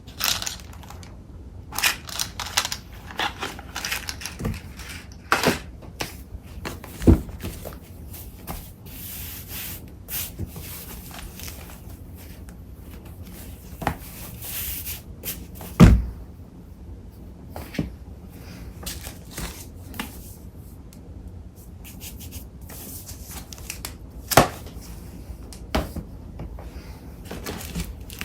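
Paper crafting supplies being handled and sorted by hand: short bursts of paper rustling, scattered taps and clicks, and a few thuds, the loudest about halfway through.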